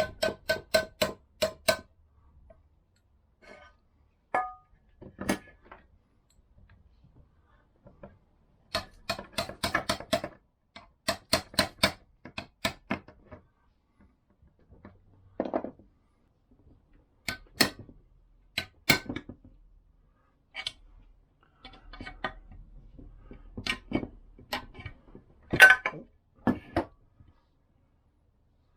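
Quick series of light, sharp taps on a Vespa PX engine casing as a rubber bung for the kickstart shaft is knocked into its seat. The taps come in several bursts of rapid strikes, with pauses between them.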